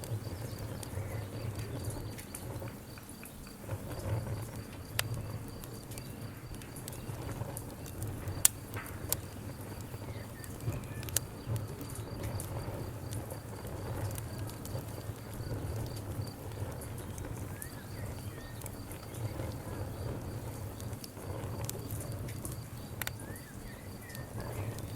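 Campfire burning, the wood crackling with scattered sharp pops, the loudest about a third of the way in, over a steady low rumble.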